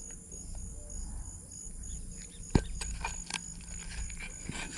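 Insects chirping steadily in a fast pulsing rhythm, with a few clicks and one sharper knock about two and a half seconds in.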